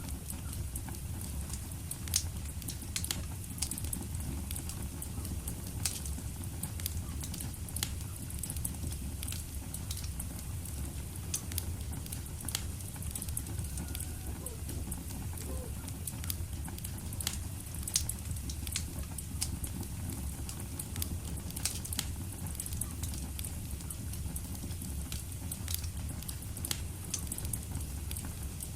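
Fire in a fireplace crackling: a steady low rumble and hiss with scattered sharp pops, the loudest about two seconds in and again around eighteen seconds.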